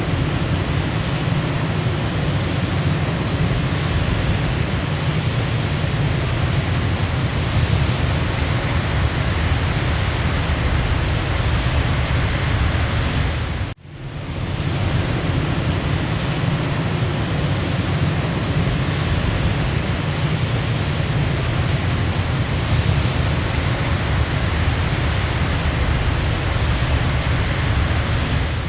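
Waterfall's steady rush of falling water. About halfway through it cuts out for a moment and fades back in.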